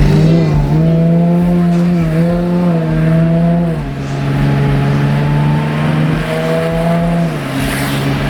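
Audi A7 engine through an aftermarket exhaust, revved and held at a steady speed, dropping to a lower held speed about four seconds in, then easing off near the end.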